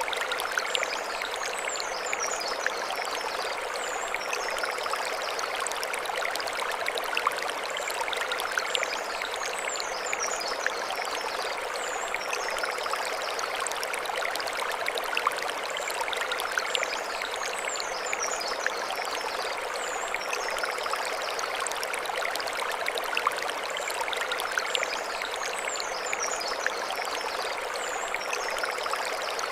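Mountain stream flowing over stones: a steady rush and babble of water. A short run of high chirping calls comes back about every eight seconds.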